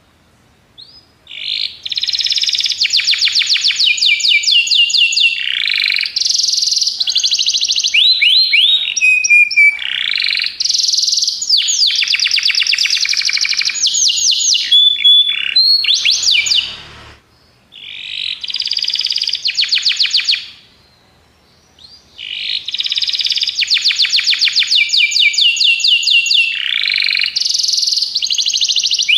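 Domestic canary singing long phrases of fast trills and rapid repeated notes, with short breaks about seventeen and twenty-one seconds in.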